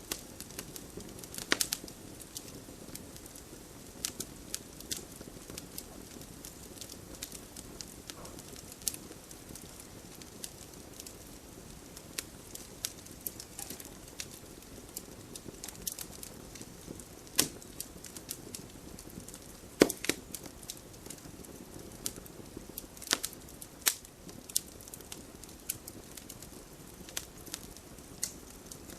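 Wood fire crackling in a fireplace: irregular sharp pops and snaps over a steady low hiss of the flames, with a few louder pops scattered through.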